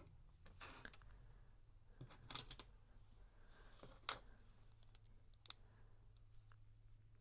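Quiet, scattered clicks and taps of plastic LEGO pieces being handled and pressed together, the sharpest about four seconds in, over a faint steady low hum.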